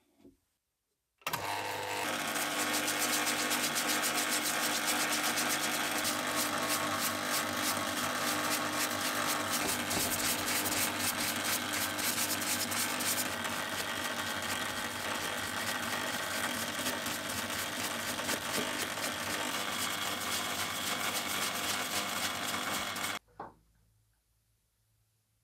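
A workshop machine or power tool running steadily for about 22 seconds, with a fast mechanical buzz, starting and stopping abruptly.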